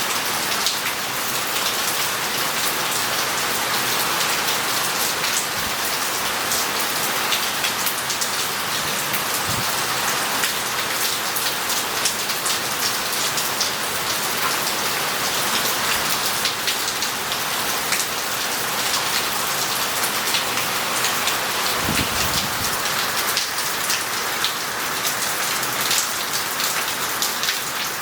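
Heavy rain falling steadily on roof tiles and street paving, with many close drops ticking sharply. Two faint low thumps come about a third of the way in and again near the end.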